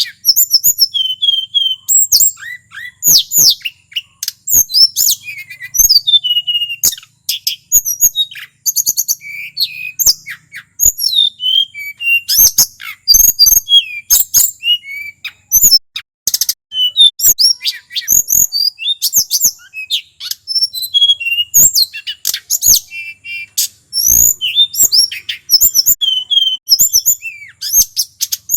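Male tledekan gunung (hill blue flycatcher type) singing on and on in fast, varied phrases of short high whistled notes, trills and sharp chips, with hardly a pause.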